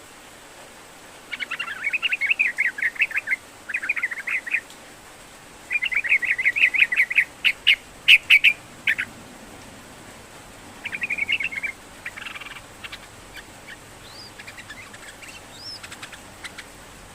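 Yellow-vented bulbul singing: loud bursts of rapid, chattering notes in four phrases with short pauses between them, then fainter scattered notes and short whistled glides near the end.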